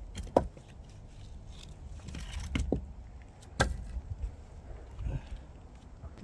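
A few sharp knocks and clunks at irregular intervals, about four in all, with low rustling and handling noise in between.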